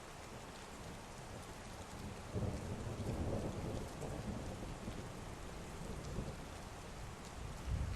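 Heavy rain falling steadily, with a roll of thunder rumbling in about two and a half seconds in and slowly fading, and another starting near the end.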